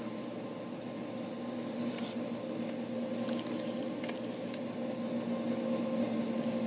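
Steady machine hum with a few faint clicks and a brief hiss about two seconds in.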